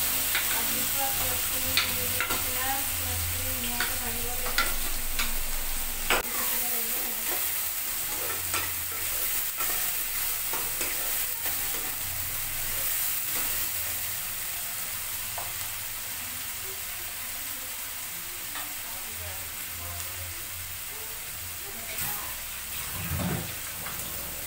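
Chopped onions sizzling as they fry in hot oil in a kadai, stirred with a spatula that clicks and scrapes against the pan. The clicks come thick in the first several seconds, then thin out while the steady sizzle goes on.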